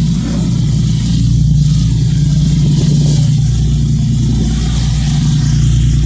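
An engine running steadily at constant speed: a loud, even low hum with a hiss over it.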